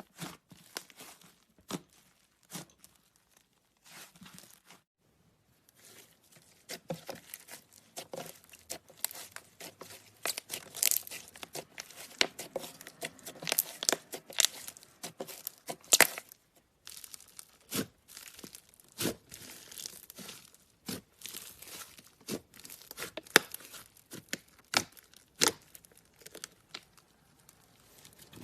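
Clay slime being squished and stretched by hand: irregular sticky crackles and pops. They are sparse at first, then dense and busy from about six seconds in, with a short lull partway through.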